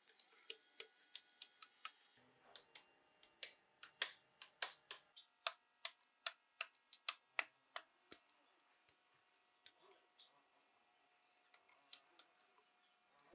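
Light, sharp clicks and taps at an irregular pace, a few a second, with a lull of a couple of seconds past the middle.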